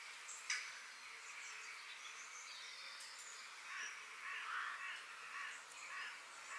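Forest birds chirping, with short high calls scattered throughout over a steady background hiss; in the second half, a run of harsh, rough calls repeats about every half second.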